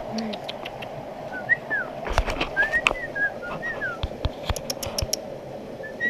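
A bird calling with short whistles that slur downward, a cluster of them in the middle and one more near the end, over the steady murmur of a shallow stream. Scattered sharp taps sound throughout.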